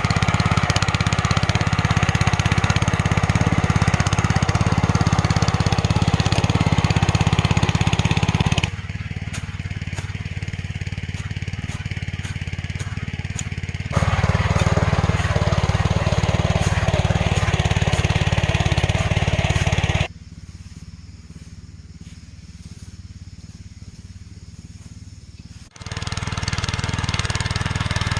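Small engine running steadily at an even pitch. It drops suddenly quieter about nine seconds in, comes back louder about five seconds later, falls much quieter about twenty seconds in, and returns near the end.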